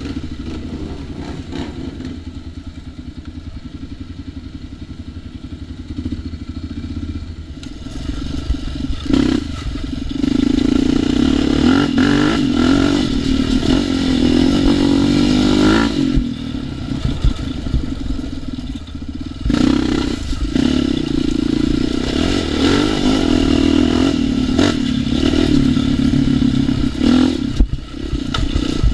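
ATV engine idling low for the first several seconds, then pulling under throttle, revving up and easing off again and again as it rides.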